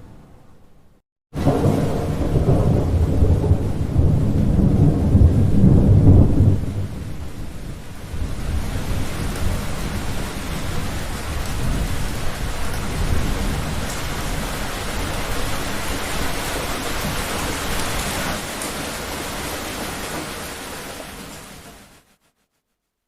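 Thunder with heavy rain. A loud low rumble starts suddenly about a second in and dies down after about five seconds. Steady rain hiss follows with fainter rumbling, and fades out to silence near the end.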